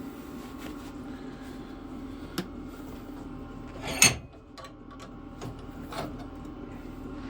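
Steel bar being handled and knocked: a light knock, then one loud sharp metal clank about four seconds in that rings briefly, and a lighter knock later, over a steady low hum.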